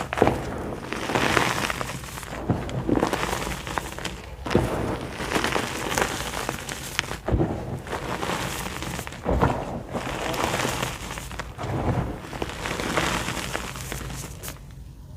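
White gym chalk being crushed by hand, a soft crunching repeated in squeezes about every second or so, with a few sharper snaps.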